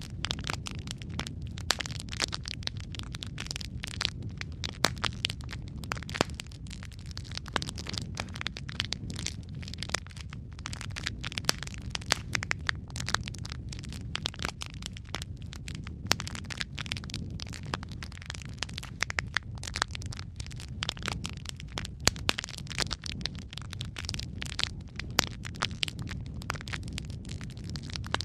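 Wood fire crackling steadily: a constant low rumble of burning with frequent sharp pops and snaps.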